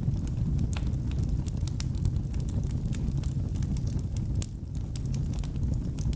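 Wood fire burning in a fireplace: a steady low roar of the flames with frequent sharp, irregular crackles and pops from the burning logs.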